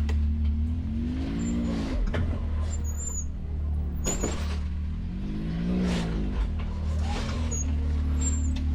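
Off-road vehicle's engine running low and steady as it crawls down over rocks, the revs rising and falling twice with throttle blips. A few sharp knocks come through, about 2, 4 and 6 seconds in.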